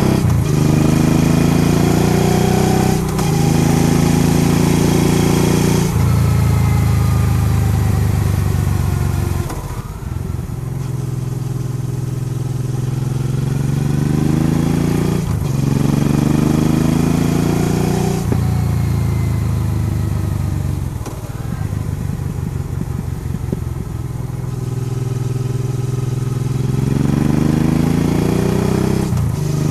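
Honda Transalp XL650V's V-twin engine running under way, its revs climbing steadily and dropping off sharply several times over, with quieter stretches where it eases off. Wind rushes past the microphone.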